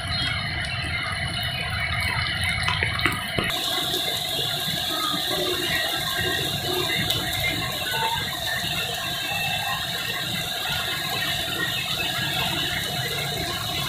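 Heavy tropical rain pouring down in a steady, rattling hiss. About three and a half seconds in the sound changes abruptly to a brighter, hissier downpour.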